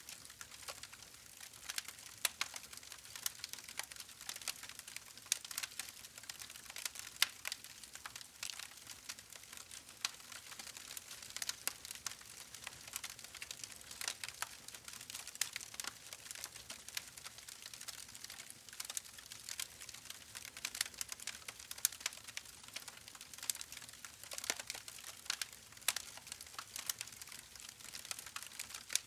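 Wood fire in a fireplace crackling: irregular sharp pops and snaps over a soft steady hiss of flame.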